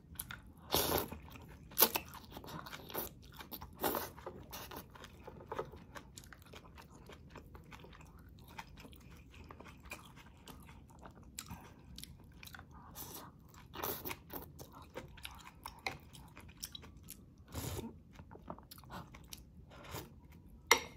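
A person chewing food close to the microphone, with irregular crunches and clicks. The loudest come about one, two and four seconds in, and again around fourteen and seventeen seconds.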